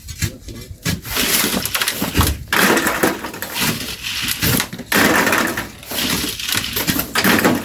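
Shovels scooping sand and gravel and tossing it, in repeated scraping, rattling strokes about every one to two seconds.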